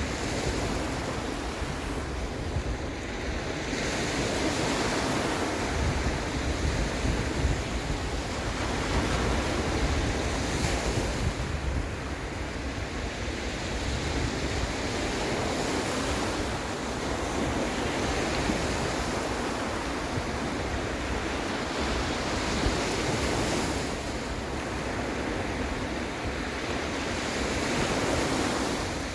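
Sea waves breaking and washing in, swelling and easing every few seconds, with some wind.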